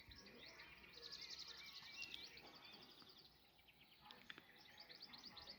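Faint songbirds singing: quick trilled phrases of high repeated notes, clearest about a second in and again near the end.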